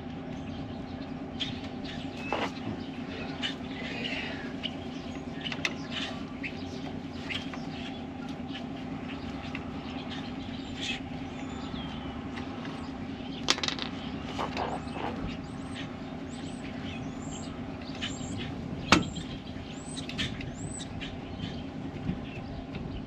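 Steady low mechanical hum with scattered sharp clicks and knocks, and birds chirping high and short several times in the second half.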